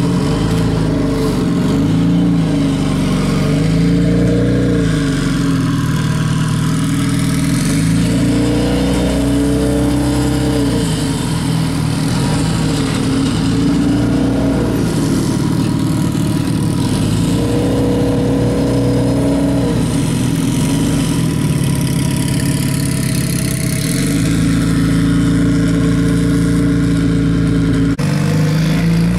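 Turbocharged Honda Civic coupe's D16 engine running as the car is driven, its note rising and falling repeatedly with the throttle.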